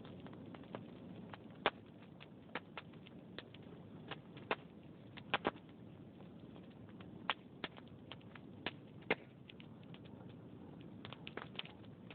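Wood fire in a fireplace crackling: irregular sharp pops and snaps from the burning logs over a low, steady hiss.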